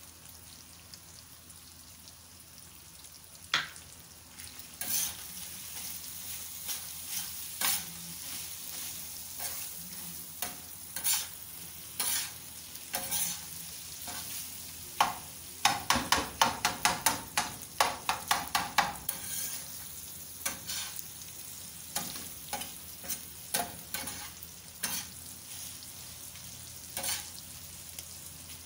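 Minced beef sizzling on a hot iron tawa while a metal spatula scrapes and taps against the griddle, working the garam masala into the well-browned qeema. The scraping starts about four seconds in, with a quick run of rapid taps around the middle.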